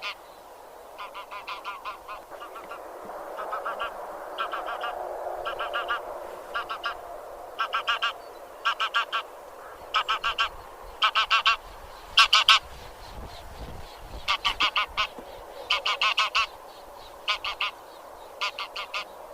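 A flock of Anser geese honking: short nasal honks in quick runs of two to four, one run after another, with the loudest run about two-thirds of the way through.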